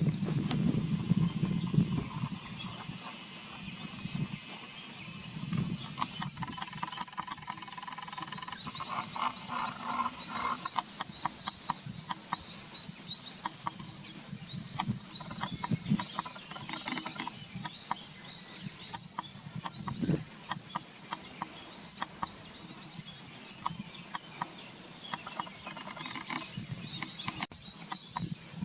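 A flock of Oriental greenfinches calling from a tree: many short, high twittering chirps overlap throughout, with trilled calls for several seconds. A low rumble runs under the first couple of seconds.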